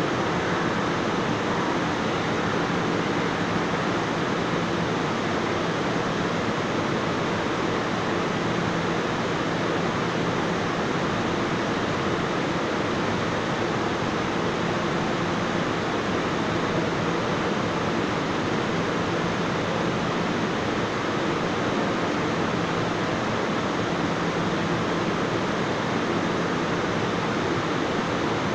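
Steady rushing noise with a faint low hum from a commuter train standing and idling at an underground platform, unchanging throughout.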